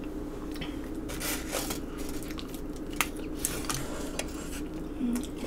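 Close-miked eating: biting and chewing a chicken wing, with wet mouth sounds and a few sharp clicks, the strongest about three seconds in.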